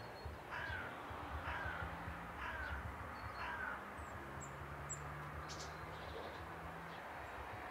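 A bird cawing four times, about a second apart, each call dropping in pitch, over a steady low rumble.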